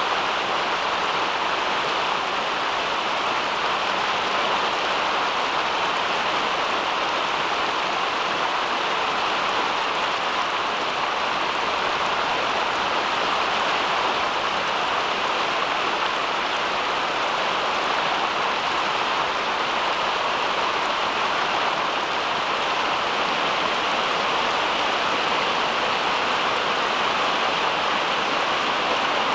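Steady rain: an even hiss that stays at the same level throughout, with no distinct drops or other events standing out.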